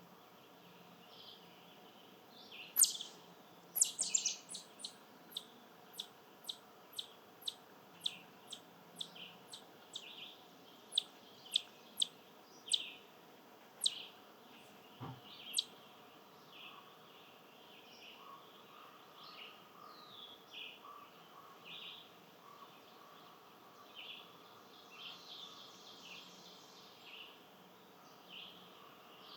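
Birds calling: a run of sharp chip notes that sweep downward, about two a second for some twelve seconds, then softer, scattered chirps.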